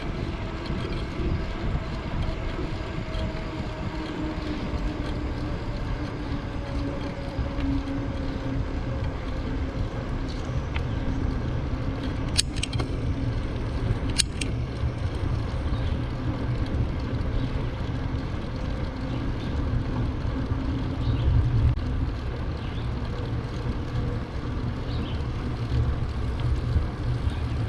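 Wind rushing over the microphone of a moving bicycle, with the rolling noise of the ride underneath. A faint tone slowly drops in pitch over the first ten seconds or so, and two sharp clicks come a couple of seconds apart midway.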